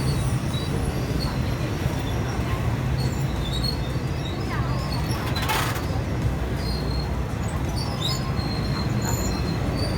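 Passenger train running along the track: a steady low rumble of wheels and carriage, with faint short high squeaks and a brief rattle about halfway through.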